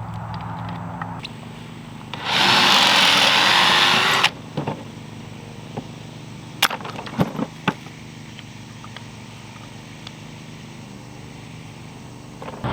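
A power tool runs in one burst of about two seconds, then several sharp knocks follow.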